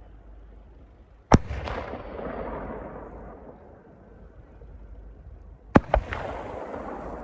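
Fireworks bursting overhead: one sharp bang about a second in that echoes away, then two bangs in quick succession near the end, followed by a hiss.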